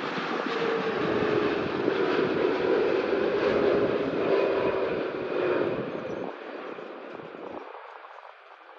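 A jet airliner's engines as it passes close by: a loud rush with a whine that slowly drops in pitch. It fades away over the last few seconds.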